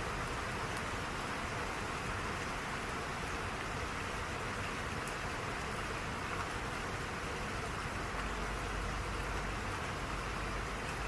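Steady rain falling, an even hiss with faint scattered drop ticks. A low rumble underneath grows stronger about eight seconds in.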